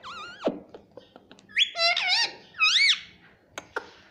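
Pet parrot giving three shrill, pitch-bending calls over about three seconds, followed by a few sharp clicks near the end.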